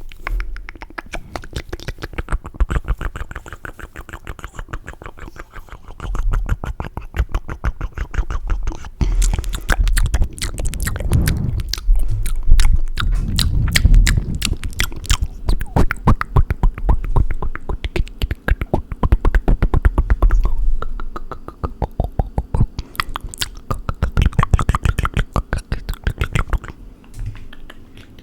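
Fast, wet mouth sounds made close to the microphone: rapid tongue clicks and flutters, lip smacks and wet pops in quick runs, with occasional low breathy thumps.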